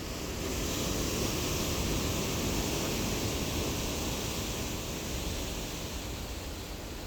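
Ocean surf washing onto the shore as a steady rushing hiss, swelling about half a second in and easing off toward the end.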